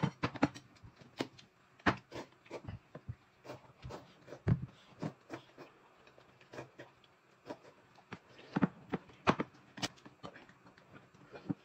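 Irregular light clicks and taps of spoons and chopsticks against ceramic bowls while a bowl of black sesame paste is stirred, with a few slurps of noodles and sips from a cup.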